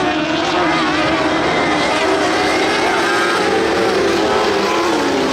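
Several dwarf race cars running in a pack on the oval, their motorcycle-derived engines revving up and falling back as they go through the turns, with several engine pitches overlapping.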